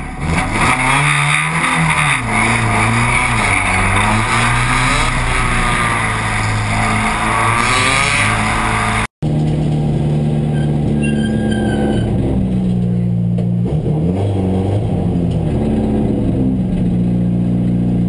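BMW M3 engine running and revving, its pitch rising and falling repeatedly, then holding steadier after a sudden instant cut-out about nine seconds in.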